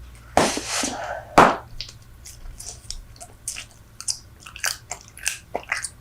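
Close-miked chewing of Super Bubble bubble gum: many short wet smacks and clicks, with two louder bursts of sound about half a second and a second and a half in.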